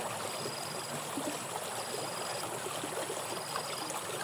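Water flowing steadily in a rain-swollen drainage ditch, with a faint short high tone repeating about every one and a half seconds.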